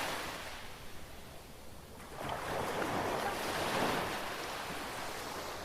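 Ocean surf washing onto the beach, a wash that swells about two seconds in and slowly fades.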